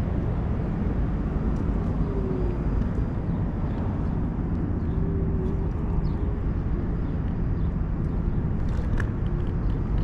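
Wind buffeting an action-camera microphone during an electric scooter ride: a steady low rumble, with a faint short tone twice.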